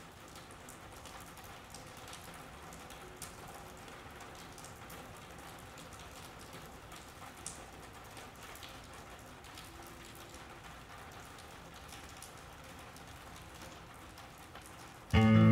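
Recorded rain: an even patter of falling rain with scattered drop clicks, used as the intro of a rock instrumental. Loud band music cuts in suddenly near the end.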